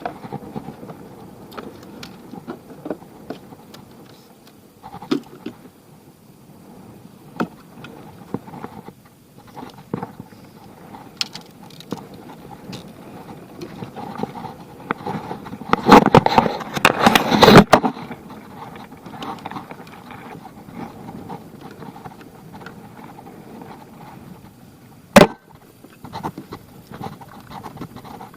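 Irregular knocks and clatters, with a loud run of dense rattling and knocking for about two seconds just past the middle and a single sharp knock near the end.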